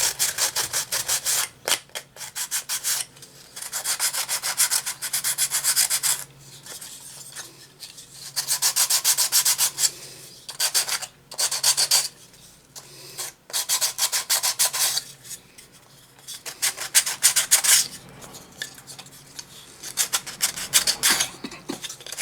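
Hand sanding a small wooden cutout with sandpaper: quick back-and-forth rubbing strokes in short bouts of a second or few, with brief pauses between them.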